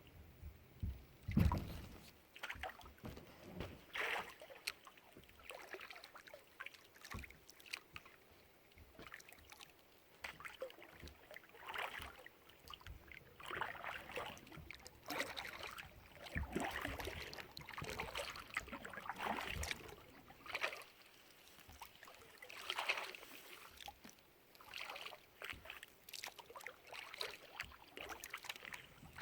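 Kayak paddle strokes in the water: an irregular series of splashes and drips every second or two, with one louder thump about a second and a half in.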